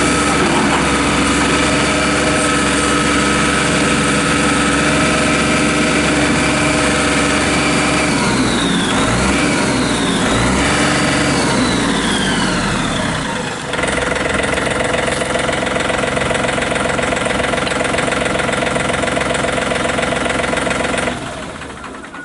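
John Deere 3720 compact tractor's diesel engine running at a steady speed. Its pitch sweeps down and up for a few seconds partway through, then settles on a new steady note. About 21 seconds in, the sound falls away sharply.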